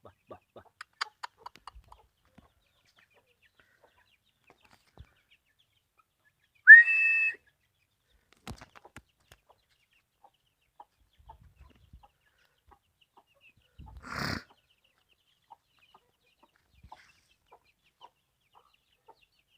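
Aseel chickens: a short run of quick clucks or peeps at the start, then one loud, high, whistle-like call about seven seconds in. A brief rustle comes around fourteen seconds, and faint scattered taps run between.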